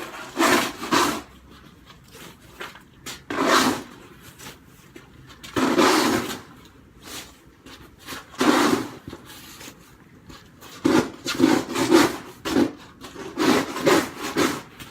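Snow shovel scraping through snow in repeated strokes, one long scrape every two to three seconds, then a quicker run of short scrapes near the end.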